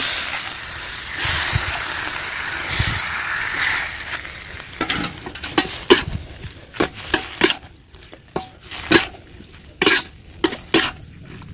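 Spicy stir-fried beef shank with bamboo shoots sizzling hard in a pan as it is stirred. After about four seconds the sizzle dies down, leaving a run of sharp spatula scrapes and clicks against the pan.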